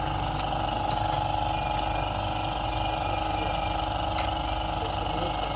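A machine running steadily with an even hum, and two sharp clicks, about one second and about four seconds in.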